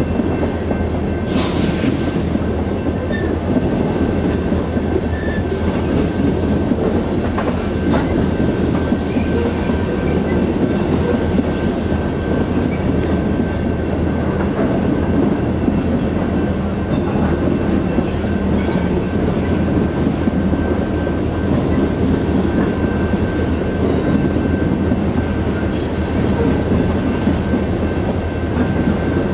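Open-top coal cars of a freight train rolling past: a steady rumble of steel wheels on rail, with clacks over rail joints and a thin, steady, high squeal. A brief falling squeal sounds about a second in.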